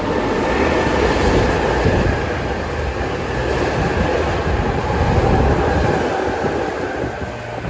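Nankai Koya Line electric train passing along the station platform: a steady rush of wheel and running noise that swells at the start and eases off near the end.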